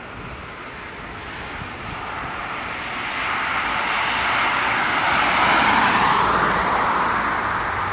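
Landing airliner passing close by: its engine noise swells to a peak about six seconds in and then begins to fade.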